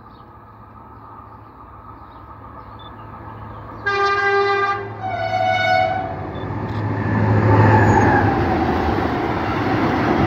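Freight train approaching, its locomotive's drone growing louder, sounding a two-tone horn about four seconds in: a lower blast, then a higher one. The locomotive then passes close and tank wagons roll by with loud rail and wheel noise.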